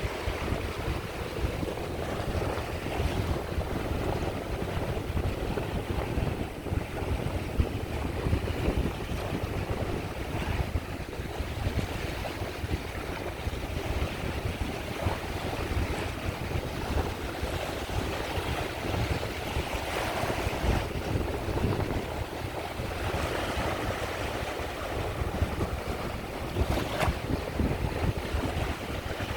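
Sea waves washing onto the shore in a continuous surging wash, with wind on the microphone.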